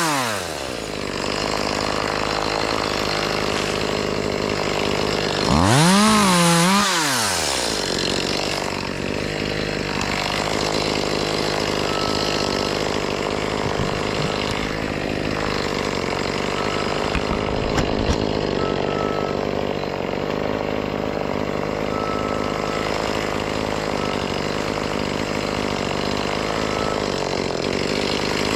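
Gas chainsaw revving up and dropping back down twice, once at the very start and again about six seconds in, with a steady engine drone running through the rest.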